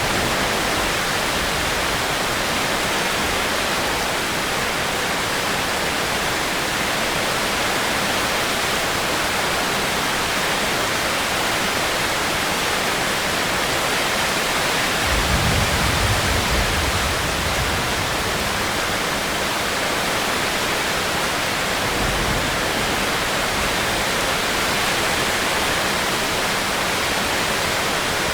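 Steady heavy rain, a dense even hiss, with a brief low rumble about halfway through and a shorter one a few seconds later.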